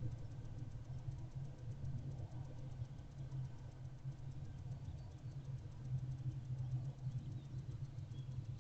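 Steady low hum with faint scratching and rustling from barn owlets shuffling and preening inside a wooden nest box.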